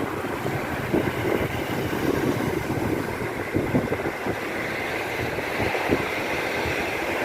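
Steady roar of a seafront road: traffic and sea noise mixed, with wind rumbling on the microphone.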